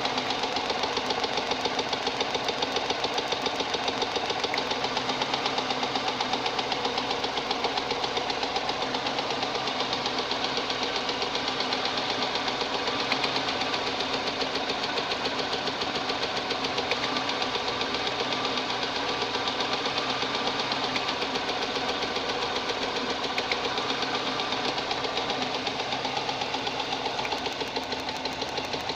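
VAZ 2108's 1.3-litre carburettor engine running steadily with a regular knock from the number-four piston, whose skirt has broken up and shed fragments into the sump.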